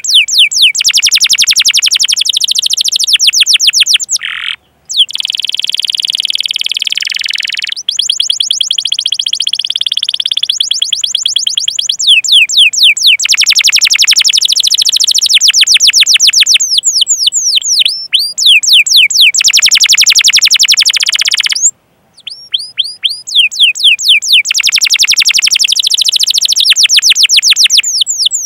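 Domestic canary singing a long rolling song: fast runs of repeated high, downward-sweeping chirps and trills, with a steadier buzzing phrase early on and two brief breaks, one about a sixth of the way in and one about three quarters through.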